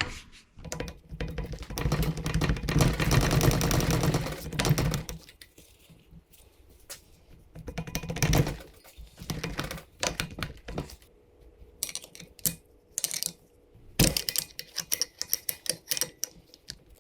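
Ratchet wrench clicking rapidly for a few seconds on the jammed kickstarter bolt of a Honda CRF150R engine, then scattered clicks and metal taps as the part is worked loose.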